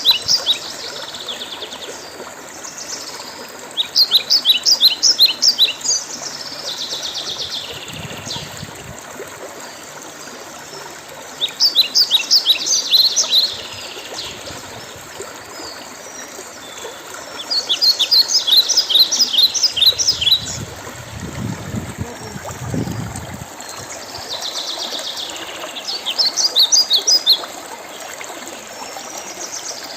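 A songbird repeats a fast series of high chirping notes about every seven seconds, each phrase lasting a second or two, over a steady hiss of running water.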